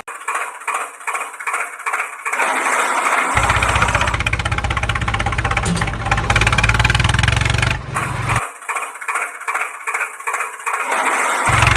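Engine sound that starts with a pulsing, cranking stretch, then catches and runs steadily. The same start-and-run sequence repeats a second time.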